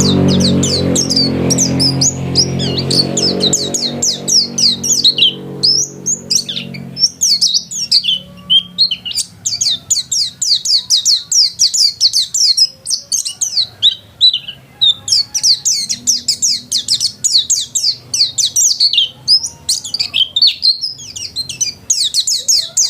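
A pleci (white-eye) singing hard: fast, continuous high chirping and trilling notes with short pauses. A motor vehicle's engine hum underneath fades away over the first seven seconds or so.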